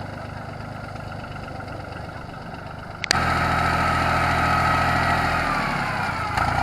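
Yanmar YM3000 tractor's diesel engine running steadily. About three seconds in there is a sharp click and the engine becomes suddenly louder and closer, with a whine that falls in pitch near the end.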